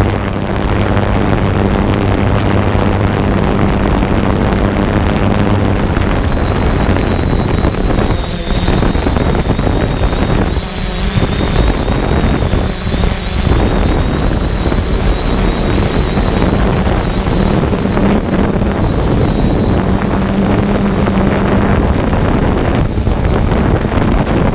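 3DR Solo quadcopter's propellers running, with heavy wind buffeting on the drone-mounted camera's microphone. A low steady hum is heard, and from about six seconds in a thin high whine joins it for most of the rest.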